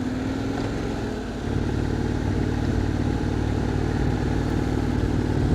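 Motorcycle engine running steadily while riding, with a low rumble that gets louder about one and a half seconds in.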